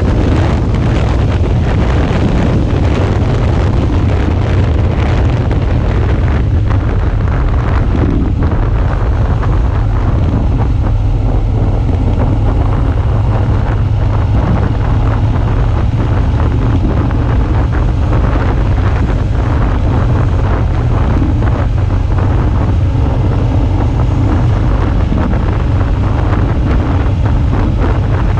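Suzuki V-Strom 650's V-twin engine running steadily under heavy wind noise on a GoPro HERO5 Session's microphone while riding.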